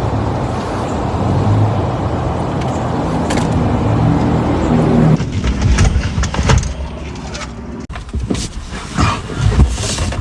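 A car engine running steadily for about five seconds, then cutting off abruptly, followed by a scatter of knocks and clatter.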